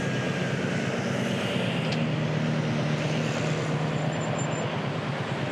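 Royal Enfield Classic 350's single-cylinder engine running steadily while riding, with wind rush on the microphone.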